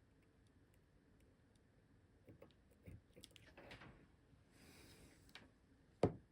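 Faint clicks and soft handling noises of small parts being moved, then a single sharp knock near the end.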